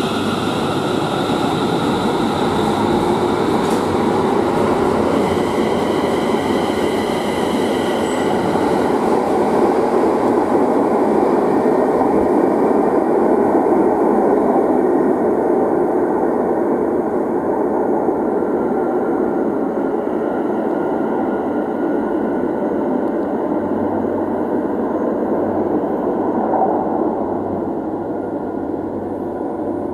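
TfL Rail Class 360 Desiro electric train pulling out of the underground platform and running off into the tunnel. A steady rumble carries on throughout, while the higher hiss and whine die away about halfway through.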